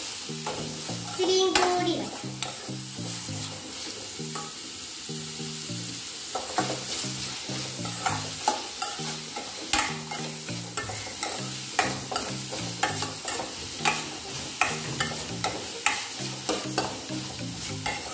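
Chopped onions, green chillies and ginger sizzling in hot oil in a stainless steel kadai while they are sautéed, with a steel spoon stirring and scraping and clicking against the pan many times.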